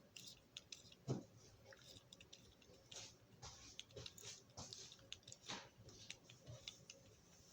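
Faint, scattered clicking and ticking of a Marx toy switcher's gears and wheels being turned by hand, working freshly applied oil down into them.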